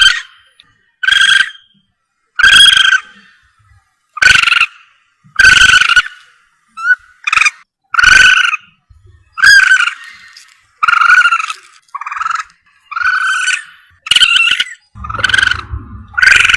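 Palm civet (musang) calls from a hunting lure recording: short, loud, pitched calls repeated about once every 1.3 seconds. A low hum comes in near the end.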